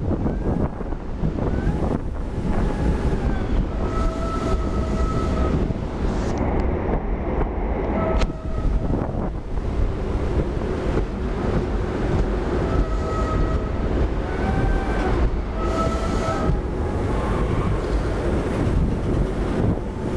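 Passenger train running along the track, heard from beside the coach side with wind buffeting the microphone: a steady rumble of wheels on rail, broken by short recurring high tones that bend up and down.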